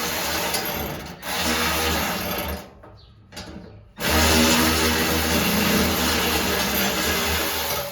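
Handheld power drill running in two long runs: about two and a half seconds, with a brief stop about a second in, then a pause, then nearly four seconds more, stopping at the end.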